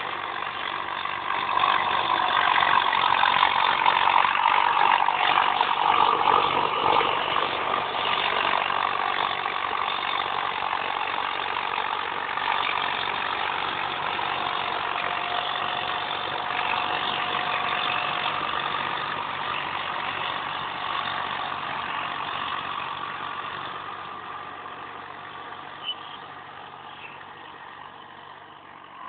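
Agri King tractor engine running steadily. It grows louder over the first few seconds and fades away gradually over the last third.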